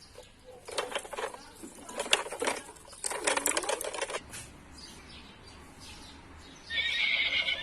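Rattling and clattering of small toys being handled, in two bursts. Near the end a horse whinny begins.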